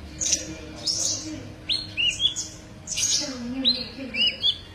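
Sunbird (kolibri) singing: a string of short, sharp high chirps and quick down-slurred notes, repeated every half second or so.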